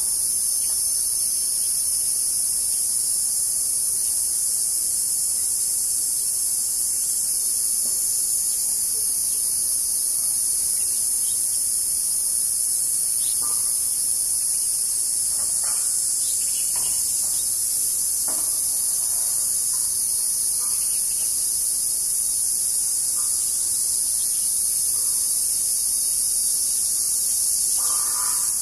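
Steady, high-pitched chorus of insects calling, unbroken and even throughout, with a few faint short chirps or taps in the middle and near the end.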